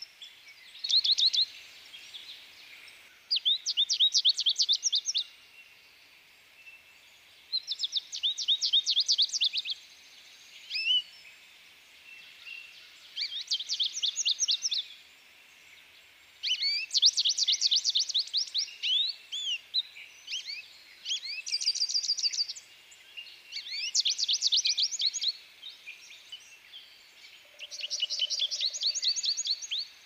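A songbird singing: repeated phrases of rapid, high, down-slurred notes, each lasting one to three seconds, about every three to four seconds.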